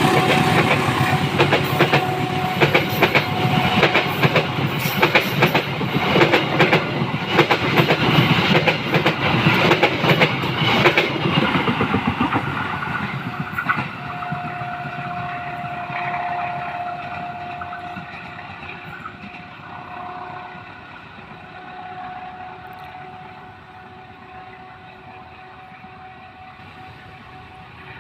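Diesel-electric locomotive-hauled train pulling away from a station: loud engine noise and wheels clattering over the rail joints for about the first twelve seconds, then fading steadily as the train recedes. A faint steady tone remains toward the end.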